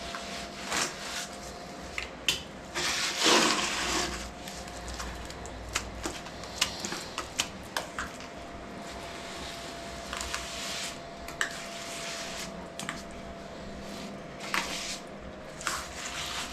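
Lime render being worked into a rough, crumbly wall with a trowel: scattered scrapes, dabs and light knocks, the longest scrape about three seconds in. A faint steady hum runs underneath.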